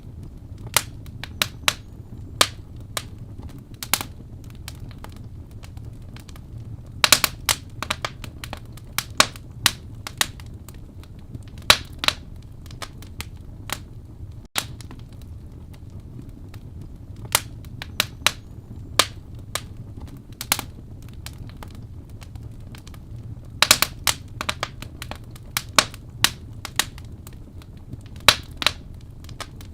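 Burning wood crackling in a fireplace: irregular sharp pops and snaps, sometimes in quick clusters, over a low steady rumble of the fire.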